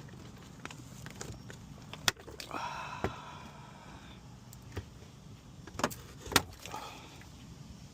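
Plastic pillar trim being pried off a car interior: sharp snaps as the retaining clips let go, and a creaking squeal from the flexing plastic lasting about a second and a half. Two more sharp snaps come close together near the end, followed by a shorter creak.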